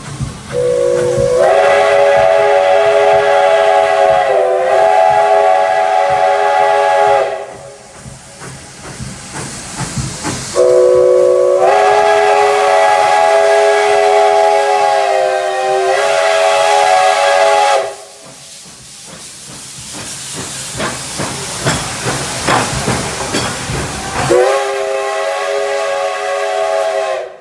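Steam locomotive whistle blowing a chord of several tones in long blasts: two of about seven seconds each and a shorter one cut off at the end. Steam hisses in the gaps between the blasts.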